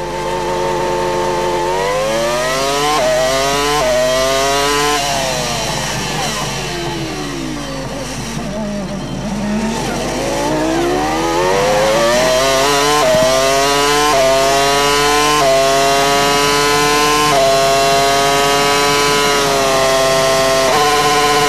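Formula One car's 3.0-litre V10 engine heard onboard at a race start: it revs up through several quick upshifts, the revs fall through a run of downshifts as the car slows for a corner, then it accelerates hard through the gears again and holds high revs near the end, with a brief lift late on.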